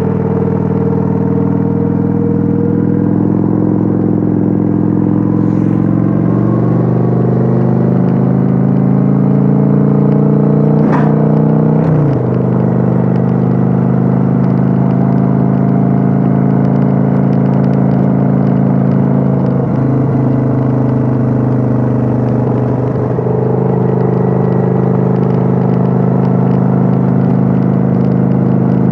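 Kawasaki Vulcan 900's V-twin engine and exhaust running steadily while cruising, heard on board without wind noise. The engine note climbs slowly over the first ten seconds. A short sharp click comes about eleven seconds in, and the engine note briefly dips three times after that.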